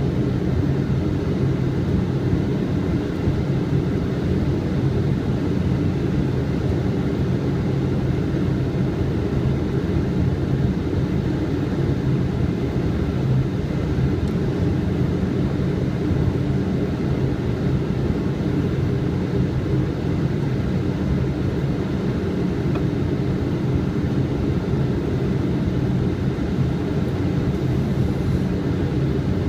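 Steady low rumble of airflow and engines heard inside a Boeing 777 flight deck on final approach, even and unbroken.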